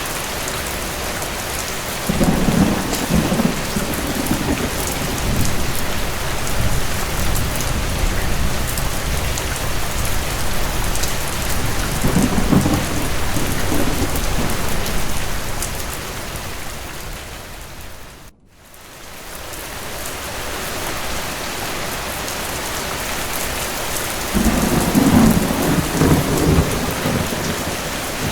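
Steady rain with low thunder rumbling three times. About two-thirds of the way through, the whole sound fades out almost to nothing and quickly fades back in.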